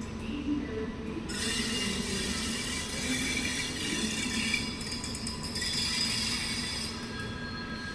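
Train rolling past on the rails, with a steady rumble and a high-pitched metallic wheel squeal that sets in about a second in and thins out near the end.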